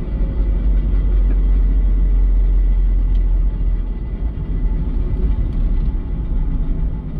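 Mazda Eunos Roadster NA8C (1.8-litre four-cylinder) running with a steady low rumble and a faint thin whine above it; the owner hears in it something rubbing or dragging.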